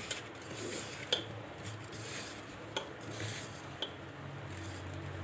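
Sliced onions being mixed with gram flour and rice flour in a bowl: soft rubbing and squishing with about five light clinks against the bowl.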